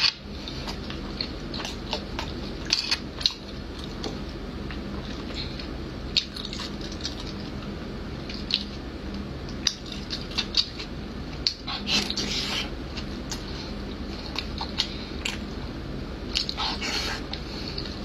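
Close-up wet, squishy chewing and mouth sounds of someone eating soft, fatty braised offal, with short sharp clicks of chopsticks against the bowl scattered throughout and a few louder bursts of smacking about twelve seconds in and near the end.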